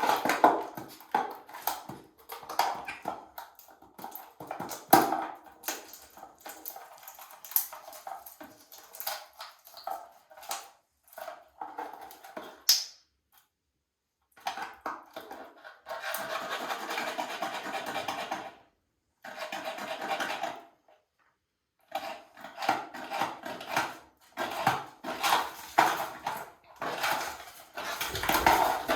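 African grey parrot at play, making irregular clicks, knocks and harsh noisy calls, with a short high rising whistle about halfway through and two longer rasping stretches soon after.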